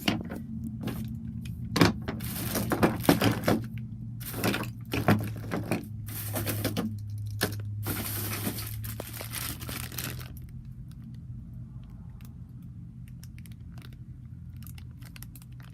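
Rustling, crinkling and clinking as small toy trains and their packaging are rummaged through and handled, busiest in the first seven seconds and sparse near the end. A steady low hum runs underneath.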